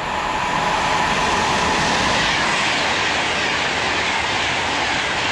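Virgin Pendolino electric express train passing at speed close by: a loud, steady rush of wheel and air noise, with a whine in the first couple of seconds.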